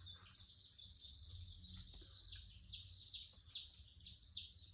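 A small bird calling faintly in a fast series of short, high, downward-sliding chirps, about four a second, starting about two seconds in. A faint steady low hum runs underneath.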